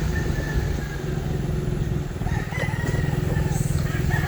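Motorcycle engine idling steadily, with a rooster crowing about two and a half seconds in.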